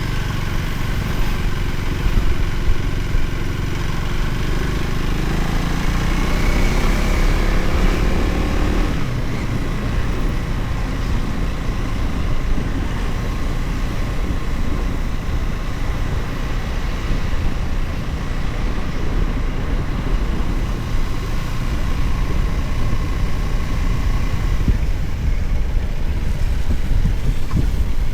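Motorcycle engine running on the move over a steady low rumble. Its pitch climbs for a few seconds under acceleration and drops off about nine seconds in.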